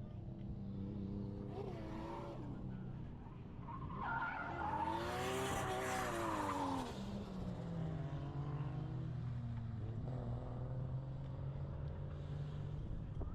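Drift car running with a steady engine note, its tyres squealing in a whine that rises and falls for a few seconds around the middle of the slide.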